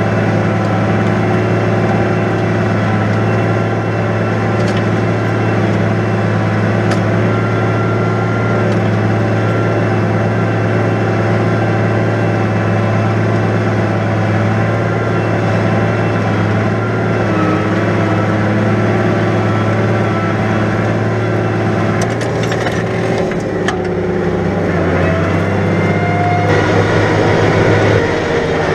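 New Holland 100-90 tractor's diesel engine running steadily under ploughing load. About two-thirds of the way through, a few knocks and clatters sound and the engine note drops, then rises again near the end.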